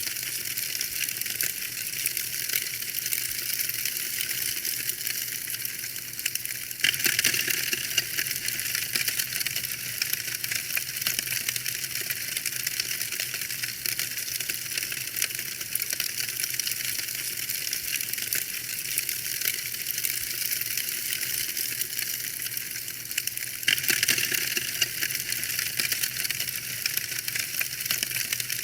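Wood fire crackling steadily with dense small pops and snaps. It turns briefly louder about seven seconds in and again near the end.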